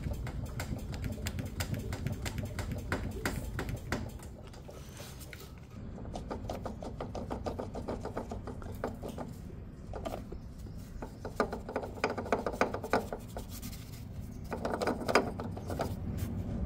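Hand tools and metal parts being handled during car repair work: a string of light clicks and knocks, with quick rattling runs of clicks near the middle and again near the end.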